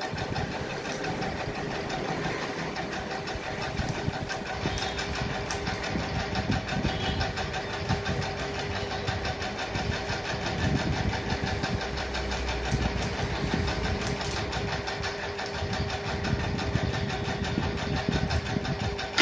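A small electric motor buzzing steadily, with a constant hum.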